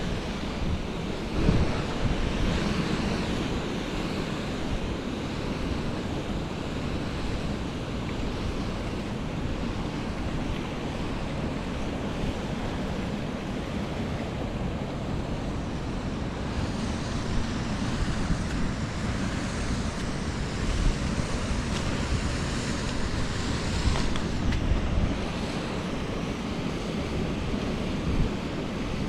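Wind buffeting an outdoor microphone: a steady rushing noise with uneven low rumbles.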